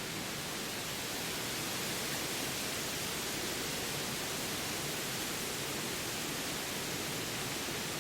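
Steady, even rushing noise of a nature soundscape, with no bird calls or other distinct events.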